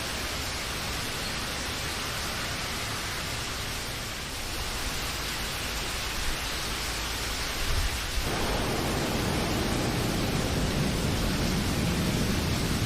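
Steady rain noise, an even hiss. About two-thirds of the way through, a deeper, louder rushing layer comes in abruptly and continues.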